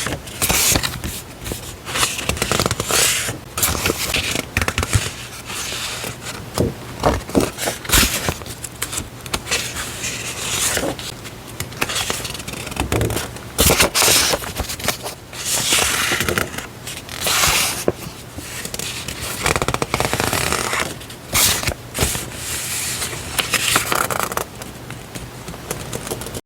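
Stationery being handled: paper and packaging rustling, crinkling and scraping in irregular bursts, with frequent sharp clicks and taps.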